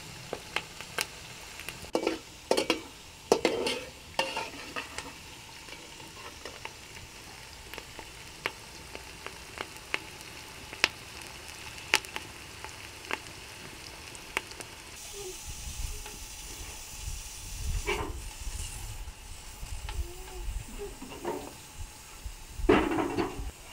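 Food frying and sizzling in a cooking pot, with sharp clicks and scrapes of a utensil stirring against the pot. Past the middle a low rumble joins in.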